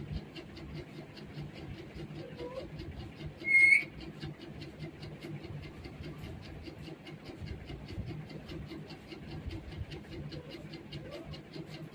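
A parrot gives one short, loud call about three and a half seconds in, over a steady low hum with an even ticking of about four to five strokes a second.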